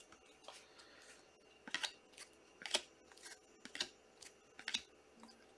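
Faint handling of trading cards and their packaging: four short crisp snips or rustles about a second apart, with a few lighter ticks between.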